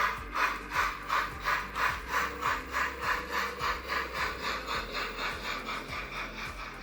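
Digital sound decoder in a model steam tank locomotive (Roco Prussian T12) playing steam exhaust chuffs from its small speaker: an even beat of about two to three puffs a second that grows softer near the end.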